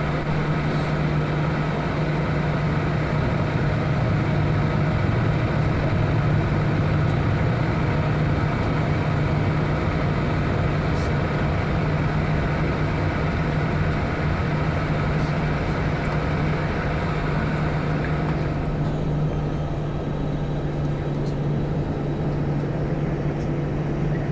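Steady cabin noise of an Airbus A319 on the ground before takeoff: a low even engine drone at idle under a hiss of air, the hiss easing about three-quarters of the way through.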